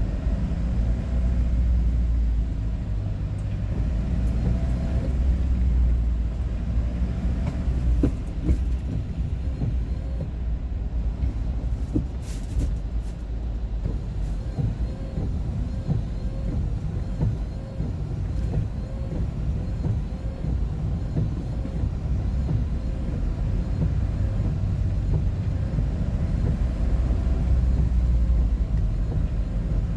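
Steady low rumble of engine and road noise from a vehicle cruising on a highway.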